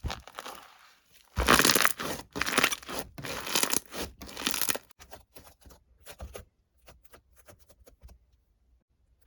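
Rustling, tearing-like noise in several loud bursts, followed by fainter scattered crackles that die away near the end.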